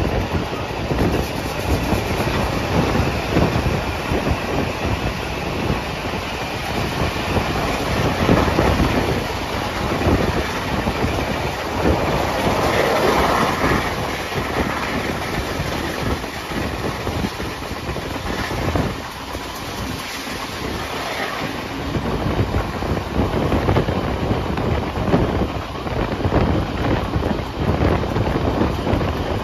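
Two steam-hauled passenger trains running side by side at speed, heard from an open carriage window: a steady rumble and clatter of wheels on rails.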